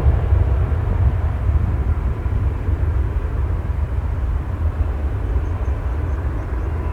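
Low, steady rumble of jet airliner engines, slowly fading.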